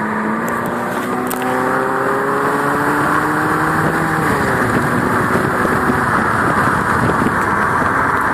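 Exhaust of a 2005 Subaru Liberty GT's turbocharged 2.0-litre flat-four (EJ20X) under way over a steady rushing noise. The engine note climbs steadily for about four seconds, then drops and settles at a lower pitch.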